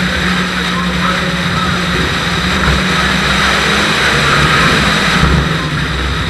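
Renault Clio RS rally car's engine running hard, heard from inside the cabin with heavy road and wind noise. The engine note dips briefly about four seconds in, then picks up again.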